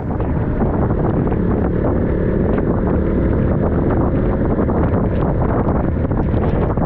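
Wind buffeting the microphone of a camera on a moving motorcycle at riding speed, a loud, steady rush with a low rumble beneath it. It starts suddenly at the beginning.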